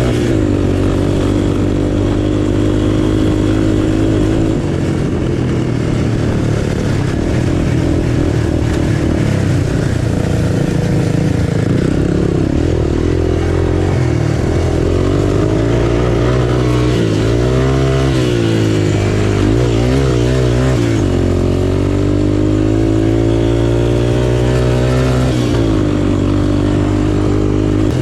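Single-cylinder engine of an off-road trail machine running steadily under way. Its pitch swings up and down quickly a few times about two-thirds of the way through as the throttle is worked, then climbs again near the end.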